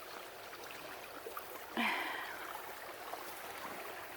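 Small creek running over stones with a steady trickle. About halfway through, a single short breathy sound slides down in pitch over it.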